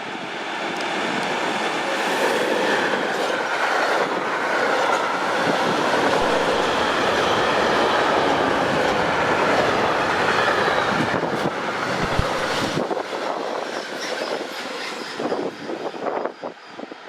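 A train running past on the rails, its wheels clattering over the track. The sound builds over the first couple of seconds, stays loud for about ten seconds, then falls away with scattered clicks near the end.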